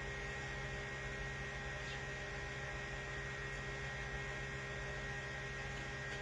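Steady electrical hum with several constant tones over a faint hiss: room tone with no other sound.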